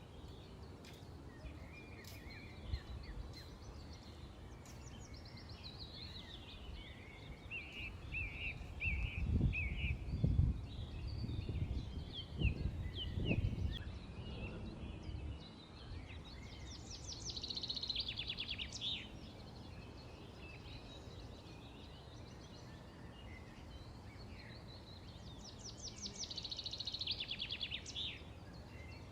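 Small songbirds chirping and twittering over a steady outdoor hiss, with two rapid high trills, one just past the middle and one near the end. A low rumble swells for several seconds before the middle.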